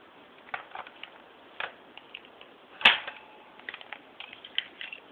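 Plastic clicks and taps from a toy cash register being worked with a toy credit card, with one loud clack about three seconds in.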